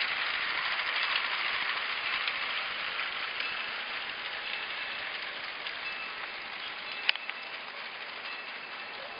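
Battery-powered New Bright G-scale toy train running along its track, a steady whirring rattle of motor and wheels that slowly grows quieter. A sharp click comes about seven seconds in.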